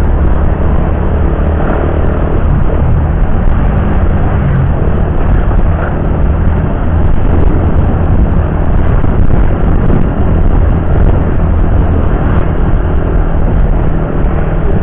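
Riding a motorcycle on a highway: steady, loud engine, tyre and wind rumble, heaviest in the low end.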